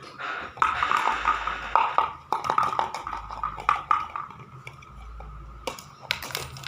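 Battery-powered robot cat toy running, with dense rapid plastic clicking and rattling from its moving mechanism.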